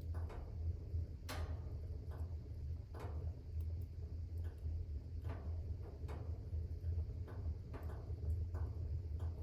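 Wood fire crackling in a fireplace: irregular sharp pops and snaps, about one a second, the loudest about a second in, over a steady low rumble.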